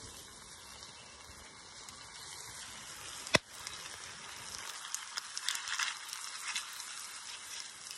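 Pork belly and cheese sizzling on a griddle plate, a steady quiet hiss with scattered crackles that pick up in the second half. A single sharp click about three and a half seconds in.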